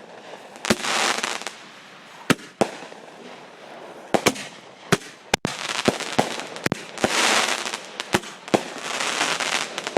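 Consumer fireworks going off: a string of sharp bangs at uneven intervals, with spells of hissing, crackling bursts about a second in and again near the end.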